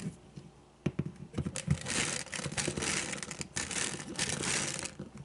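Crinkling and tearing of packaging as the supplement bottle is handled: a dense run of crackles and small clicks starting about a second in and thinning near the end.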